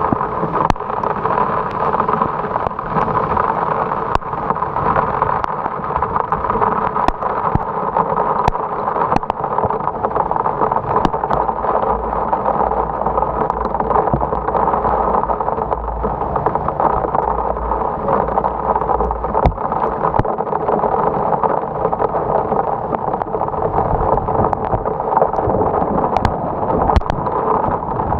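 Heavy rain and road noise picked up by a motorcycle-mounted action camera while riding: a steady rushing hiss with scattered sharp ticks.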